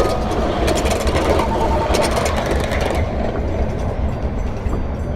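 Miniature ridable train going by, its wheels clickety-clacking over the rail joints with a steady low rumble underneath. The clicking dies away about three seconds in as the train moves off.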